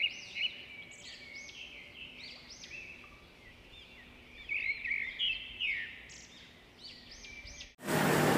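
Birds chirping: a long run of short, quick, curving chirps. About eight seconds in, this cuts off abruptly into a much louder, steady rushing background noise.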